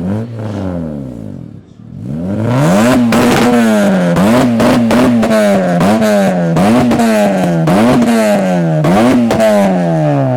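A car engine revved hard over and over, about once a second. Each rev rises sharply and sinks away, and the exhaust crackles along with it.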